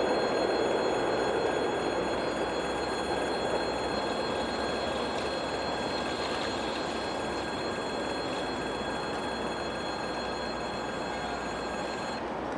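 Electric train running and moving away, its rolling rumble fading slowly. Several steady high-pitched tones sound over it and cut off suddenly near the end.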